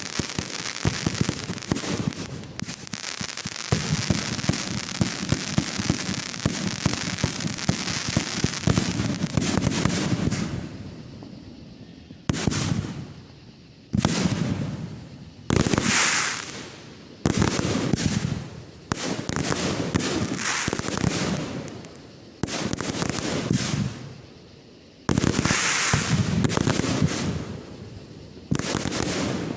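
Fireworks going off: a dense run of rapid crackling for about the first ten seconds, then a series of sudden loud bursts every second and a half to two seconds, each one dying away.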